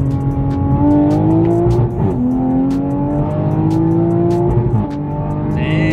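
Big-turbo 2020 Toyota Supra's turbocharged inline-six under hard acceleration, heard inside the cabin. Its pitch climbs, drops as the automatic shifts up about two seconds in, climbs again, and drops with a second upshift near the end.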